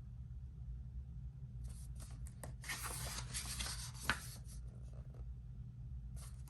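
Pages of a coloring book being turned: a cluster of papery rustles and slides from about two to four seconds in, with a sharp tap near four seconds and another short rustle near the end, over a steady low hum.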